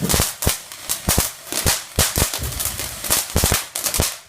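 Consumer fireworks crackling: a rapid, irregular string of sharp bangs, several a second, that stops shortly before the end.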